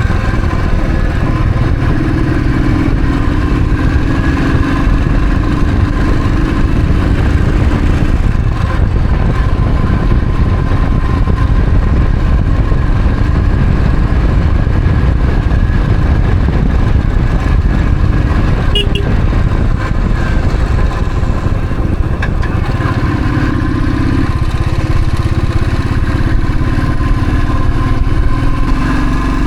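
Royal Enfield Thunderbird's single-cylinder engine running steadily under way, its note rising in pitch now and then.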